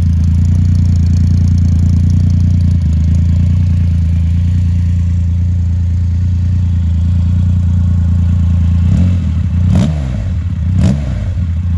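Triumph Rocket 3R's 2.5-litre inline three-cylinder engine idling steadily, then revved twice near the end, the revs rising and falling each time.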